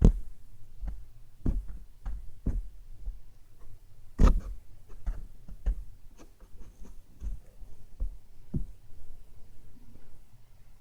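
Slime being handled close to the microphone: irregular sticky clicks and pops, the loudest about four seconds in.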